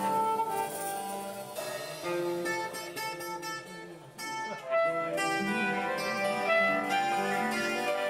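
A live band playing music, with stringed instruments and notes that change about every half second; the sound dips briefly about four seconds in.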